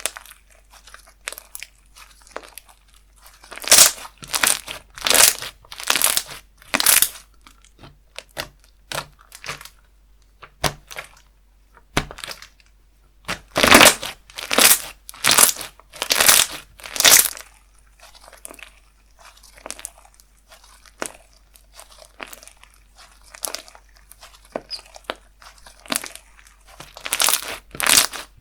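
Slime being squeezed, poked and pressed by hand, giving a string of sharp pops and crackles. There are louder runs of about one pop a second a few seconds in, around the middle, and near the end.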